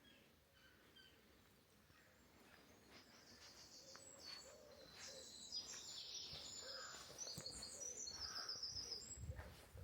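Birdsong: a small songbird sings rapid, high trilled phrases starting about three seconds in, while a pigeon coos low and soft underneath.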